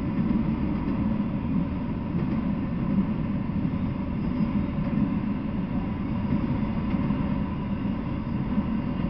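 Freight train of autorack cars rolling past, a steady low rumble of wheels on the rails.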